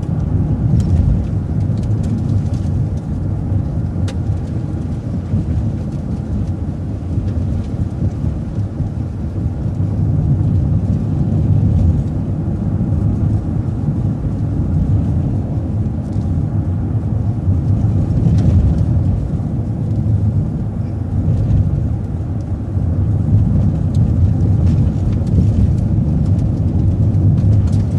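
Steady low road and engine rumble heard from inside a moving vehicle, with a few faint ticks and rattles.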